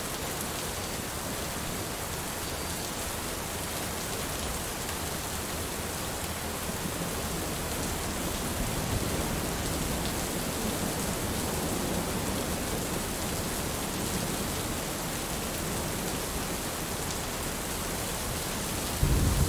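Heavy rain falling steadily, an even hiss of drops on surfaces. Just before the end a loud, low rumble of thunder breaks in suddenly.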